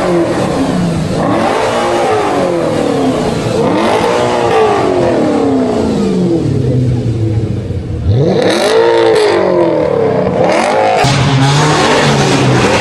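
A car engine revving hard over and over, its pitch rising and falling about five times, then holding a steady note near the end.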